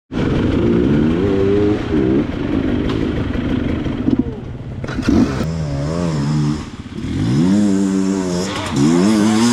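Enduro motorcycle engine revving up and down under throttle, its pitch rising and falling repeatedly, with a short dip in revs past the middle before it climbs again.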